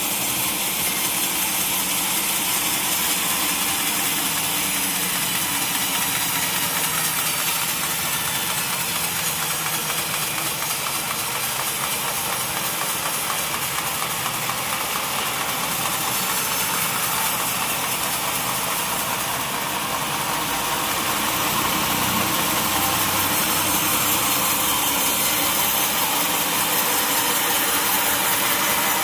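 Sawmill machinery running steadily, a constant mechanical hum with a hiss over it that grows a little louder about two-thirds of the way through.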